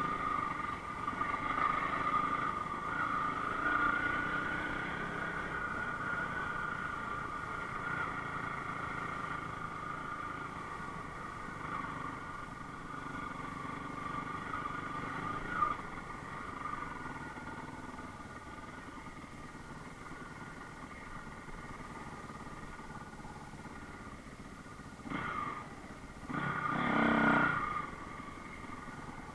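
Enduro motorcycle engine running at a steady pitch and slowly fading, with two short louder surges near the end, the second longer.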